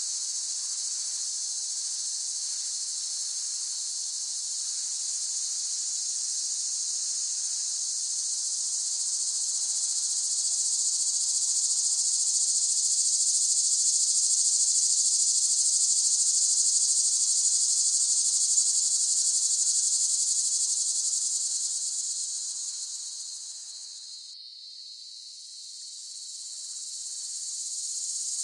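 Cicadas singing in chorus: a dense, steady, high buzz that swells to its loudest around the middle, fades and briefly dips about three-quarters of the way through, then builds again.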